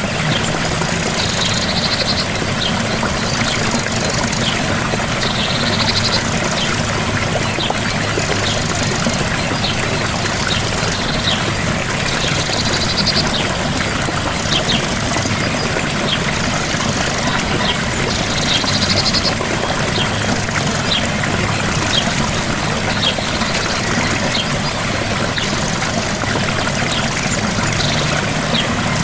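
Gentle waterfall with water pouring and splashing steadily. Short high chirps recur every few seconds over it.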